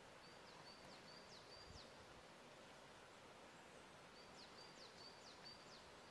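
Faint outdoor ambience: a small songbird sings two short high phrases, one at the start and one about four seconds in, each a run of about four quick notes alternating a level whistle with a falling slur, over a steady soft hiss.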